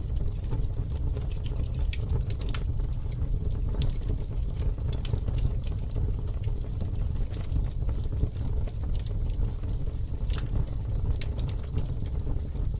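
Campfire burning, with a steady low rumble and irregular crackles and pops of the burning wood; one sharper pop comes about ten seconds in.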